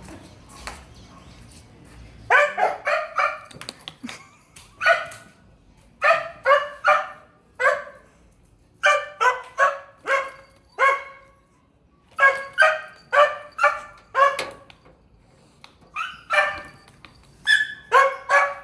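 A dog barking repeatedly: short barks in quick runs of three to six, with pauses of a second or two between runs.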